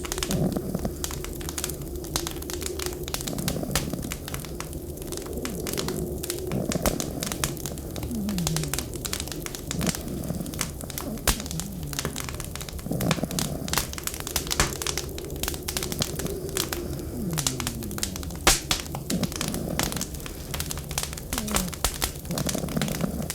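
Wood fire crackling in a fireplace, with constant irregular pops and snaps, over a steady low rush of blizzard wind. Short low falling tones recur every couple of seconds.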